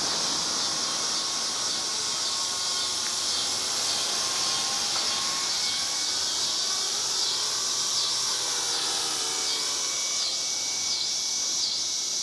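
Small electric RC helicopter in flight: a high motor whine and rotor buzz that drifts up and down in pitch as the throttle changes. Steady high insect chirping, pulsing rhythmically in the second half, runs underneath.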